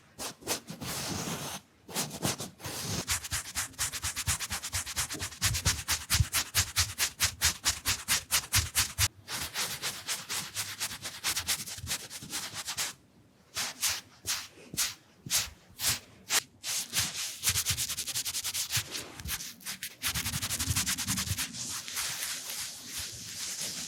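Makeup tools brushed and dabbed fast against the microphone, making quick scratchy rubbing strokes several times a second. After a short break about halfway through come a few separate strokes, then a steadier, denser rubbing near the end.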